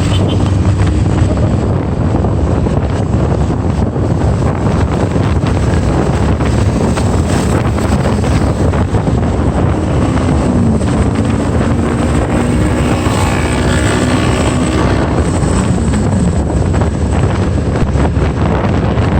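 Wind buffeting the microphone on a moving motorbike, over steady engine and road noise. A pitched whine swells and fades about two-thirds of the way through.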